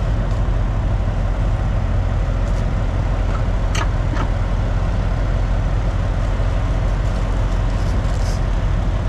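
Steady low rumble of an idling truck engine, with a few faint clicks about four seconds in and again near the end.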